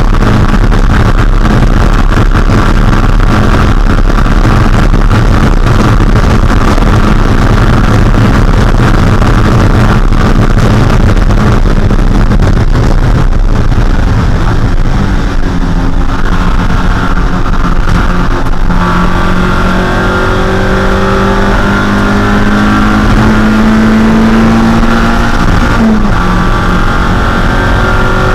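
A Spec Miata's 1.6-litre Mazda four-cylinder engine running hard at racing speed. From about halfway in, its pitch climbs slowly, then drops sharply near the end.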